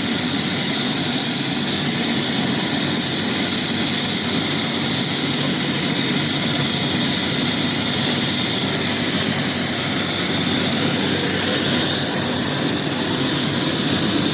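Air ambulance helicopter's turbine engine running steadily: a loud, even rush with a high whine.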